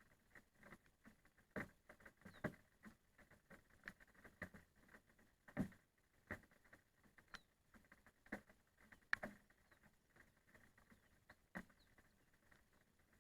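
Raindrops falling in sparse, irregular taps on a surface, a few landing louder than the rest.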